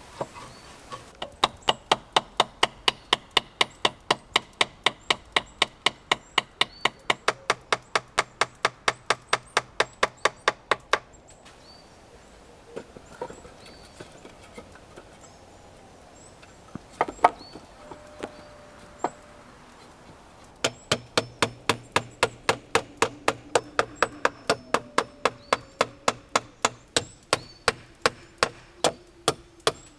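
A blade chopping wood in quick, even strokes, about three or four a second. The strokes come in two long runs with a pause of about ten seconds between them, and there are a few separate knocks during the pause.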